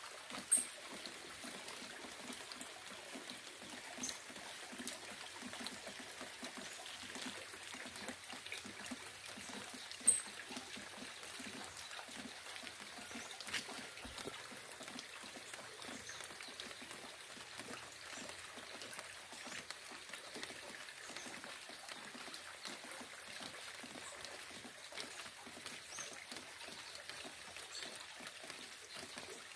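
Rain falling steadily, with a patter of individual drops throughout. Two brief, sharp, high-pitched sounds stand out, one near the start and one about ten seconds in.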